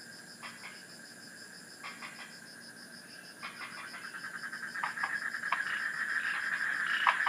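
Frogs calling in short runs of rapid clicky croaks, repeated several times, over a steady high chorus of insects. A trilling chorus swells louder from about halfway through.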